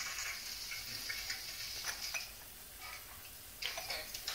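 Garlic and chili pepper sizzling in hot olive oil in a frying pan: a steady hiss with small crackles, fading about two seconds in, with a few more crackles near the end.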